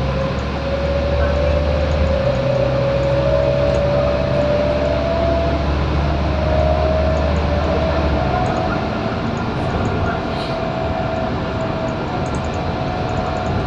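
Scania K230UB single-deck bus heard from on board while accelerating: a deep engine drone with a driveline whine rising in pitch. About eight seconds in the deep engine note drops away as the engine eases off, while the whine carries on at a steady pitch.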